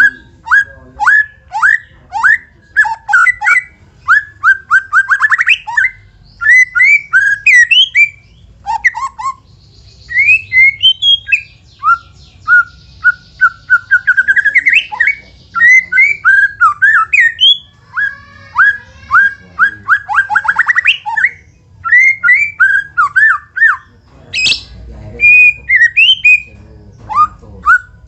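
White-rumped shama singing loudly in varied phrases: rapid series of sharp down-slurred notes and fast trills that speed up and rise in pitch, in bouts with short pauses. This is the kind of lure song played to provoke a captive shama into singing.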